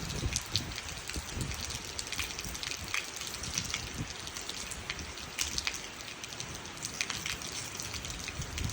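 Steady light rain, a soft even hiss with many separate drops ticking at irregular moments.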